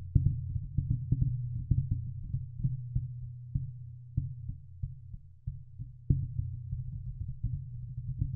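A steady low hum with many irregular low thumps over it.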